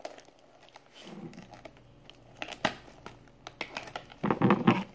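Crinkly plastic packaging being handled and snipped with scissors as a toy blind bag is cut open, with scattered sharp clicks and a louder rustle about four seconds in.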